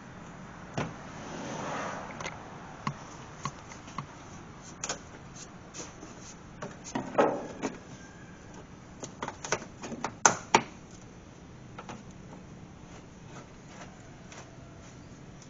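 Irregular clicks, knocks and clatter of hand tools and fasteners being handled while the cover under a car's engine is fastened back on, with the sharpest clacks about seven and ten seconds in.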